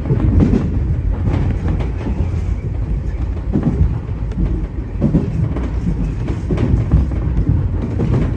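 Tobu 30000 series electric train running at speed, a steady low rumble with occasional clacks of the wheels over rail joints, heard from inside the front car.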